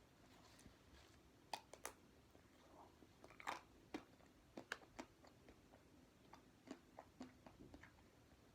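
Faint, irregular small clicks and crunches, a dozen or so scattered unevenly, the sharpest about one and a half, three and a half and five seconds in.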